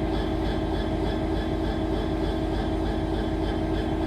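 Class 66 diesel-electric locomotive's EMD two-stroke V12 engine idling steadily while the train stands waiting to depart, a constant hum with a faint regular pulsing of about four beats a second.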